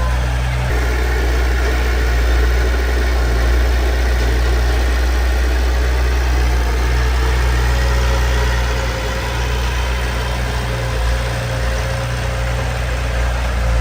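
Diesel engine of heavy earthmoving machinery running steadily with a deep rumble, without any marked revving.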